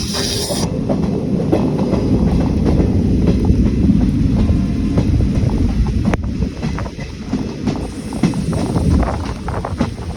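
Train running on the track: a steady low rumble of wheels on rails with irregular clicks from the rail joints. A short hiss comes at the very start, and a sharp click about six seconds in.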